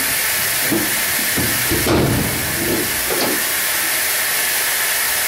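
A few knocks and a sharp clunk about two seconds in, over a steady hiss, as the truck's hood is unlatched and opened.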